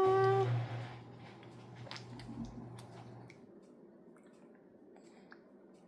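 A held voice note ends about half a second in. Then come faint wet squishing and small clicks as a baby eats puréed baby food from a spoon, under a low steady hum that stops about three seconds in.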